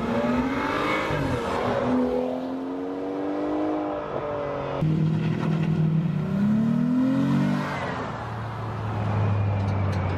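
Car engines revving and accelerating, pitch rising and falling several times, with an abrupt change in the engine sound about five seconds in.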